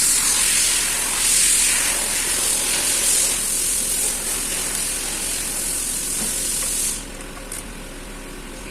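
A loud pressurised spray hissing in surges about every second and a half, then cutting off sharply about seven seconds in.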